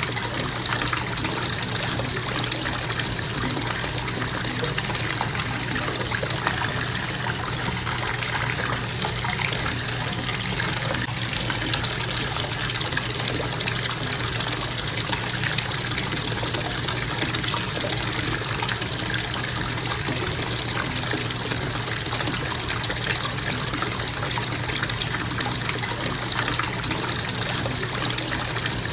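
Bathtub faucet running in a steady stream, water splashing into the tub.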